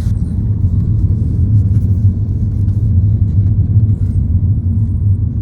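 Steady, loud low rumble of a car being driven, its road and engine noise heard from inside.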